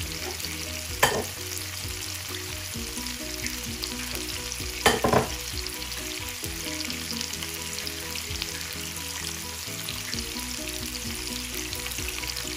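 Food frying in hot oil in a pan, a steady sizzle, with a utensil knocking against the pan about a second in and again in a short cluster about five seconds in.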